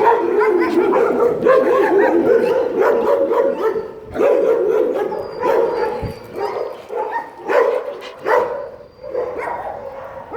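Dogs barking and yipping in dense, overlapping bursts. The calls are almost continuous for the first four seconds, then come in shorter bunches with brief lulls.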